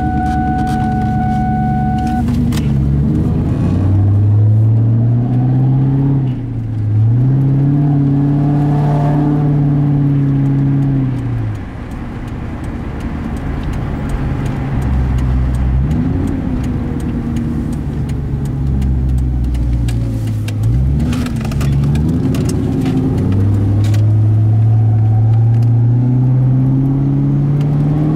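1999 Ford Mustang GT's 4.6-litre V8 being revved and let back down to idle several times, which the owner suspects has rod knock. A steady tone stops about two seconds in.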